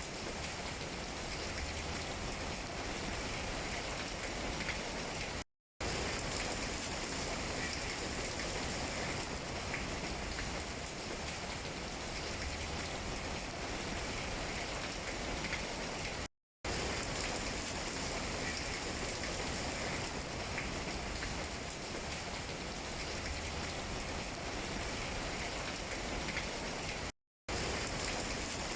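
Steady rain falling on tree leaves, a dense even hiss with scattered drop taps. The sound cuts out completely for a split second three times, evenly spaced about every eleven seconds.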